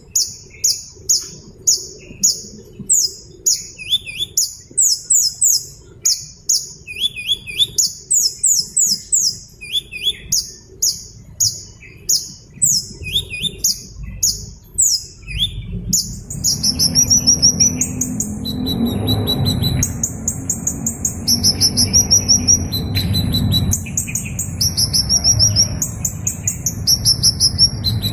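Hummingbird calling: thin, high-pitched chirps repeated a few times a second in short runs. About halfway through, a low rumbling noise comes in underneath, and the calls change to quicker twittering runs of notes.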